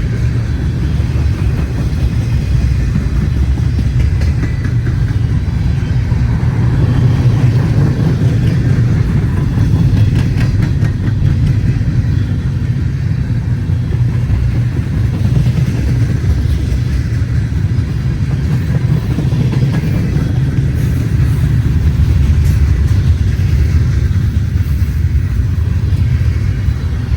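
Freight train rolling past, a loud steady low rumble of wheels on rail.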